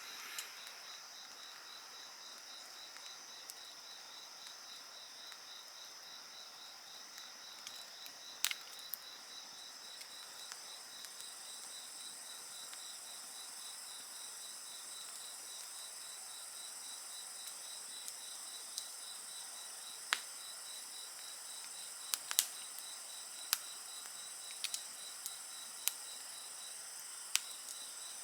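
Insects trilling steadily in several layered high-pitched voices, one with a rapid pulsing trill and a higher one joining after about eleven seconds. Over them a wood fire crackles with occasional sharp pops, more frequent in the second half.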